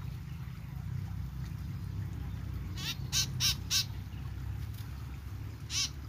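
Calls of a freshly netted bird held in the hand: four short, harsh calls in quick succession about three seconds in, then one more near the end.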